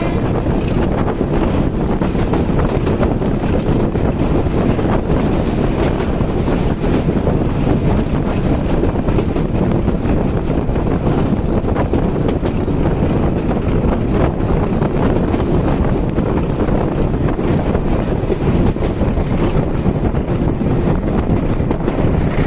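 Steady rumble of the Padmarag Express passenger train running along the track, heard from aboard with wind buffeting the microphone.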